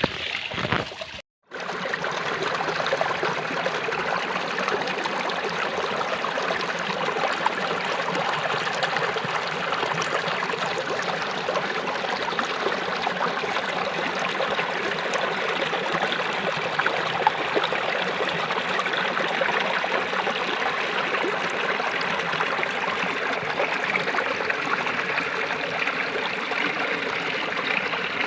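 Running water, a stream flowing with a steady rush, broken by a brief cut to silence about a second in.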